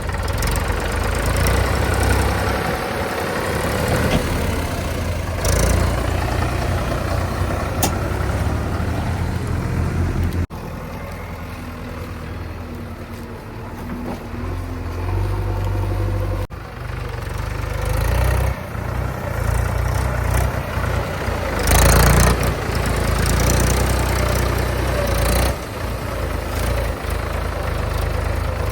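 Diesel engines of heavy machinery, a backhoe loader and tractor, running and rising and falling in loudness. The sound changes abruptly twice, about ten and sixteen seconds in.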